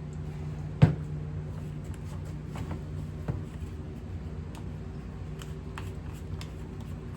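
Paint-mixing containers being handled on a bench: one sharp knock about a second in, then a few lighter clicks and taps, over a steady low hum.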